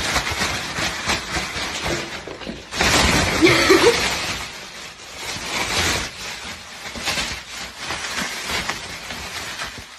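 Thin plastic carrier bag rustling and crinkling as it is handled, loudest about three to four seconds in. A brief wavering pitched sound is mixed in at that point.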